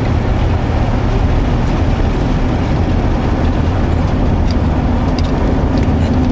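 Steady low rumble of a car driving, heard from inside the cabin: engine and tyre noise, with a few faint ticks scattered through it.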